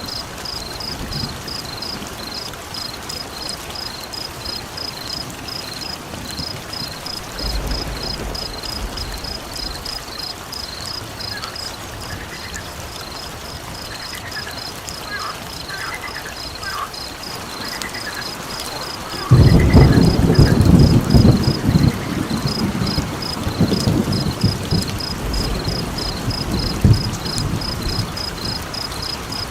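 Steady rain with thunder: a short low rumble about a third of the way in, then a loud rumble that breaks in suddenly about two-thirds through and dies away near the end. A steady high chirping, about two to three chirps a second, runs under it throughout.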